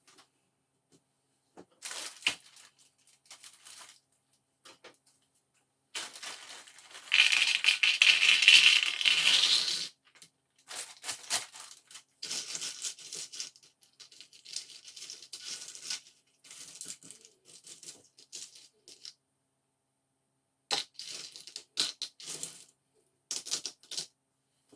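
A cardboard jigsaw puzzle box being unpacked by hand: bursts of plastic crinkling and tearing, clicks, and small loose pieces rattling, with the loudest, densest stretch of crinkling lasting about three seconds, about seven seconds in.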